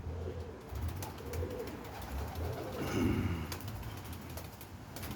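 Domestic pigeons cooing, soft low coos repeating about once a second, with a louder one about three seconds in.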